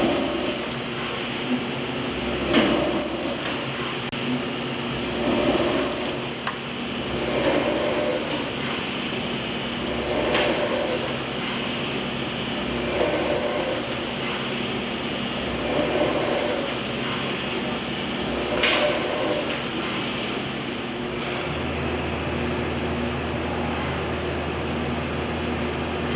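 Quickmill Annihilator CNC machining center working a row of holes in a tube sheet: a high squeal of the cutter in the metal with each hole, eight times about every two and a half to three seconds. After the last hole the machine runs on with a steady hum.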